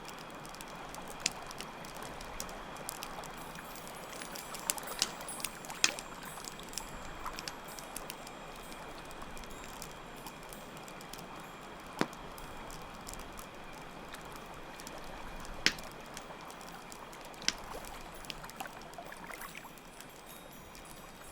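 Campfire crackling with a few sharp pops over a steady rushing of water, with crickets chirring constantly in the background.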